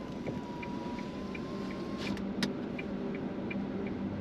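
Hazard-light indicator ticking steadily inside the truck cab, about three ticks a second, over the low hum of the idling engine. An electric window whines up for about two seconds and stops with a clunk.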